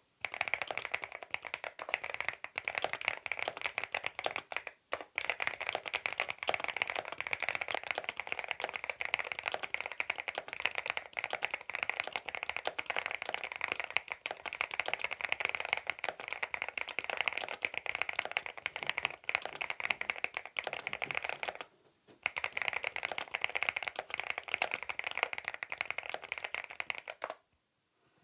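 Fast, continuous typing on a CIDOO V87 aluminium-cased mechanical keyboard with linear switches, a dense clatter of keystrokes. It breaks off briefly about three quarters of the way through, resumes, then stops shortly before the end.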